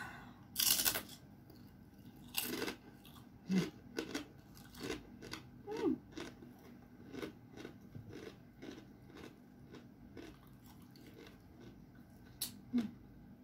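Close-up crunching of a crispy fried cracker being bitten and chewed: a loud crunching bite about a second in and another near two and a half seconds, then steady chewing crunches, a couple a second.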